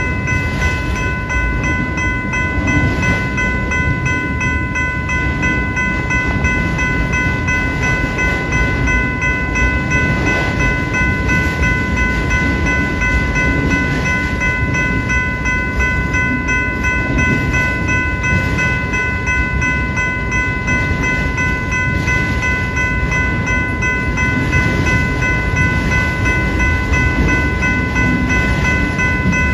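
A train passing at a railroad crossing: a steady, loud rumble of the cars on the rails, with a continuous high ringing of several steady pitches held over it.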